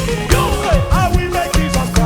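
Upbeat dance music from a praise band, with a steady drum beat, bass line and sliding melodic lines over held chords.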